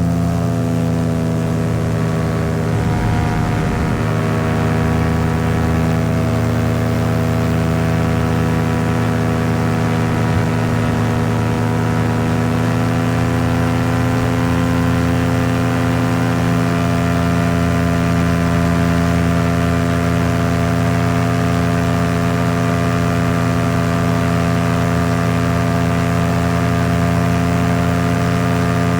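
Paramotor engine and propeller running steadily at cruise power in flight, a loud, even drone whose pitch dips slightly about three seconds in.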